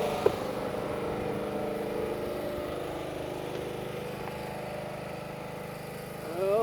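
An engine idling with a steady, even hum that slowly fades, and a single sharp click about a third of a second in.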